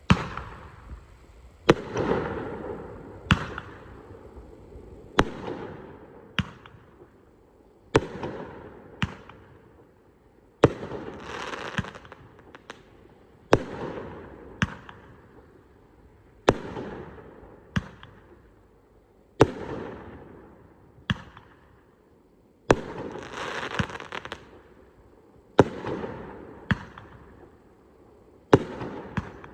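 Purple Passion, a 16-shot 1.5-inch-bore consumer firework cake, firing shot after shot. Each shot is a sharp bang about every second and a half, and each fades away into a trailing rumble and hiss before the next.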